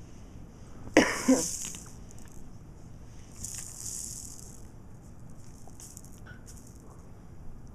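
A baby's short, sharp vocal noise, a squeal-like outburst in two quick pushes about a second in, followed by quieter breathy, hissing sounds.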